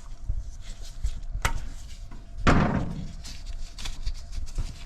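Small knocks and clicks of hands and plastic parts in an engine bay as a vacuum hose is worked off a sensor fitting. There is one sharp click about one and a half seconds in, and a louder scraping rustle about a second later.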